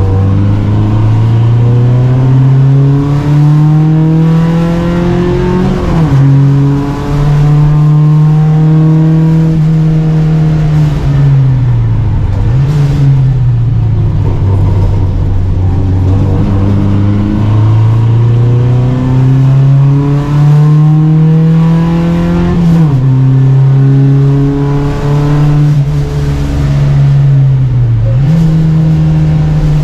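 Volvo Amazon 121 race car's engine under hard acceleration, its pitch climbing, then dropping sharply at an upshift about six seconds in. The pitch then holds, falls away under lifting off with a quick blip just before halfway, and climbs again to a second sharp upshift about three-quarters through, with another brief dip and blip near the end.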